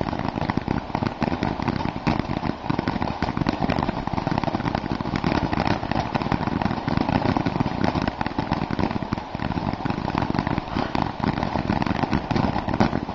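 A lit consumer firework crackling steadily: a dense run of rapid pops without a break.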